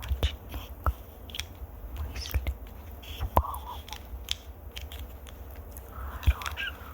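ASMR mouth sounds close to the microphone: irregular wet clicks and smacks, with a low rumble underneath.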